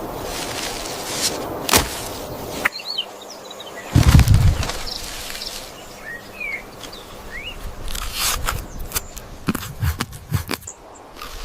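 Nature ambience: a hiss with clicks that cuts off abruptly, then a few short high chirps, a heavy low thud about four seconds in, and scattered clicks and crackles near the end.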